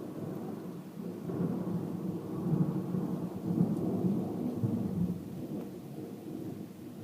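Thunder rumbling, a long low roll that builds in the middle and slowly dies away.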